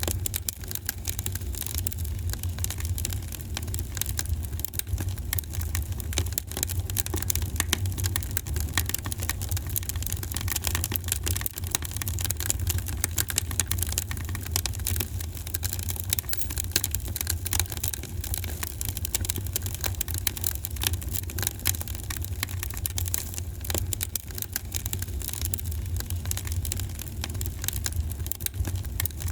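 Fire in a fireplace crackling: dense, irregular small pops and snaps over a steady low rumble.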